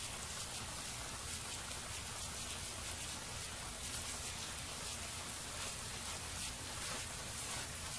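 Steady rain falling, with many small drop ticks heard over an even hiss.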